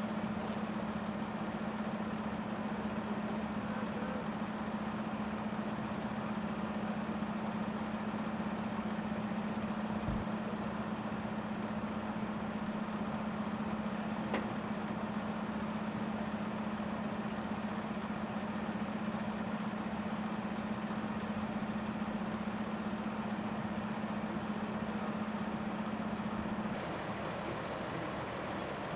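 Vehicle engine idling, a steady hum that stops about 27 seconds in. There is a single sharp click about halfway through.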